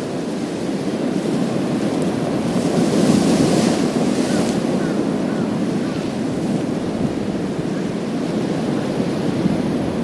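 Sea waves breaking on a pebble beach: a steady rush of surf that swells about three seconds in, with a brighter hiss as the water washes up over the stones.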